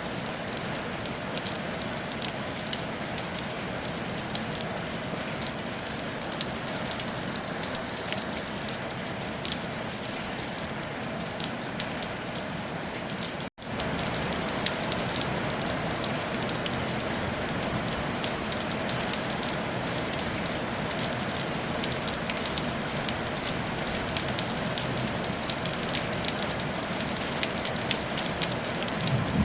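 Steady rain falling on a tile roof, a dense patter of drops. It cuts out for an instant about halfway through, then carries on a little louder.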